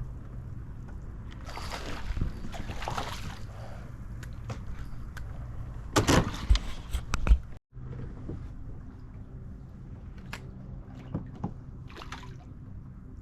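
Water sloshing and splashing around a kayak, with a low steady hum underneath. A quick cluster of sharp knocks comes about six seconds in, and the sound cuts out for a moment just after.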